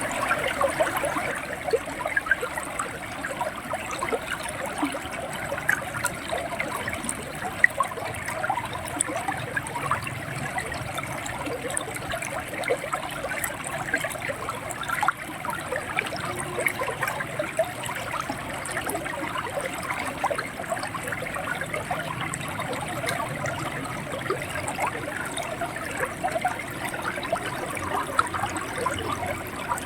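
River water running and gurgling over stones: a steady rush dotted with many small splashes and bubbling.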